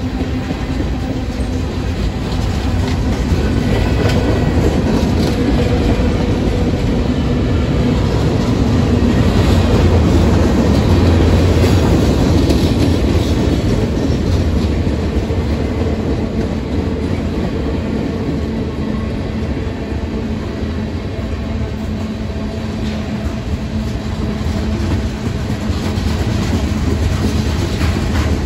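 CSX mixed freight train rolling past, its cars' wheels running on the rails in a steady, heavy rumble that swells louder about ten seconds in and then eases.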